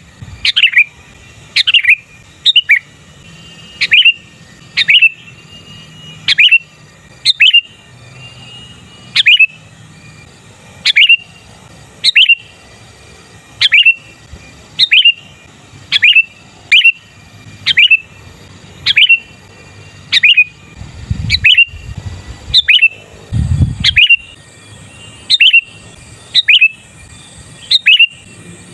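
Sooty-headed bulbul giving a sharp, downward-sweeping chirp over and over, about once a second.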